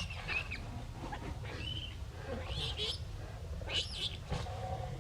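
Baby monkey giving a few short, high-pitched cries, each one rising and falling, over a steady low rumble.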